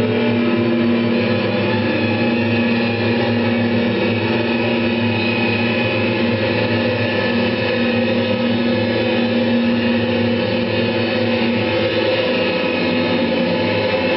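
A steady, dense drone of several held tones at an even loudness, without breaks or beats.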